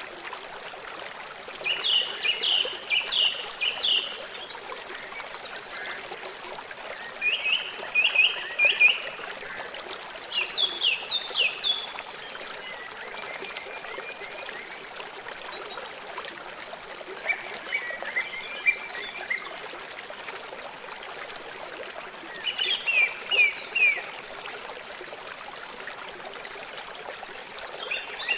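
A songbird singing short phrases of quick, down-slurred chirps, about six phrases a few seconds apart, over the steady rush of a stream.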